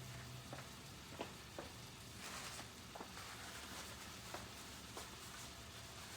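Faint sizzling of chicken and vegetables frying in a pan, with a few light clicks scattered through it.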